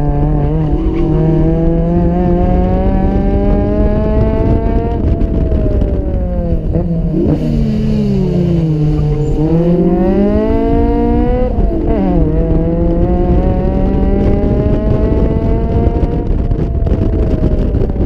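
Four-cylinder car engine under hard acceleration. Its pitch climbs steadily, falls away steeply about five seconds in, then rises again. It drops sharply just before the midpoint at a gear change, then climbs once more and eases off near the end.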